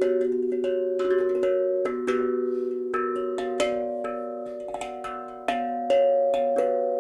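Steel tongue drum (tank drum) with nine notes tuned to a B scale, struck by hand in a flowing melody. Each note rings on and overlaps the next.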